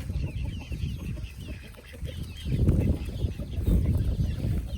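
A flock of month-old chicks peeping and chirping, many short high calls overlapping, over a low rumble on the microphone that grows louder about halfway through.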